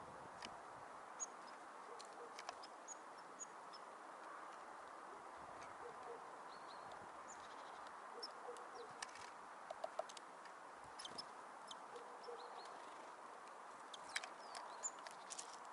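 Tits and other small birds at a winter feeder, giving short high calls and chirps scattered throughout, with a number of sharp taps, over a faint steady background hiss.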